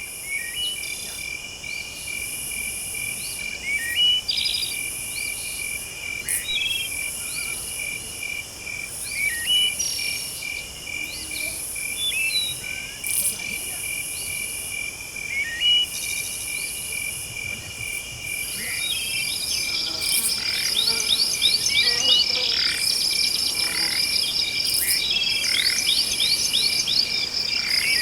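Forest ambience: crickets and other insects chirping steadily in a pulsing trill, with scattered short bird calls. About two-thirds through, a faster, higher chirping joins in.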